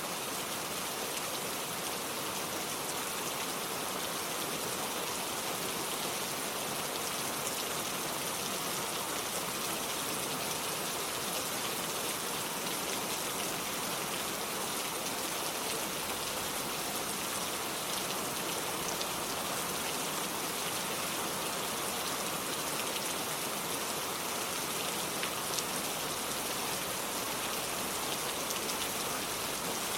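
Steady rain falling and pattering on hard surfaces, a dense even hiss with fine drop ticks.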